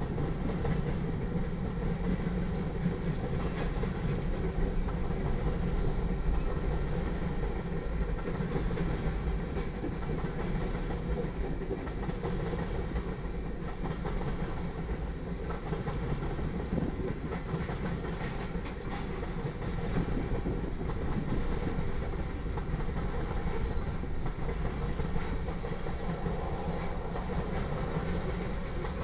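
Freight cars of a mixed manifest train (boxcars, tank cars, covered hoppers) rolling past on the main track: a steady rumble of steel wheels on the rails with occasional clicks.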